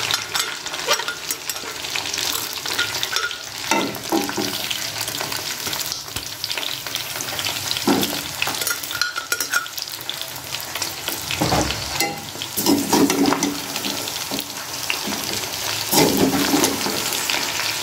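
Chicken feet and freshly added ground onion paste sizzling in hot oil in a kadhai, stirred with a metal spoon that scrapes and knocks against the pan, with louder scrapes every few seconds.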